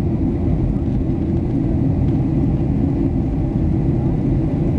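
Boeing 737-800 cabin noise in flight: a steady low rumble of its CFM56 turbofan engines and the airflow over the fuselage.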